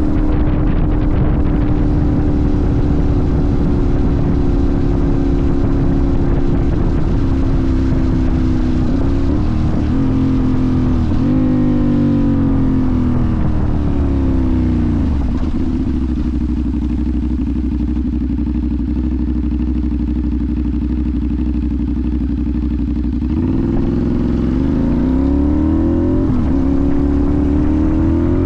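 Sportbike engine heard from the rider's seat. It cruises steadily, then drops through several downshifts to a low idle for about eight seconds, and about 23 seconds in pulls away again, revs rising through the gears.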